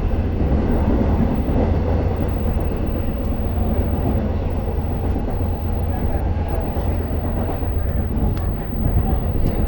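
A Long Island Rail Road passenger train running, heard from inside the car: a steady low rumble with a few faint light clicks in the second half.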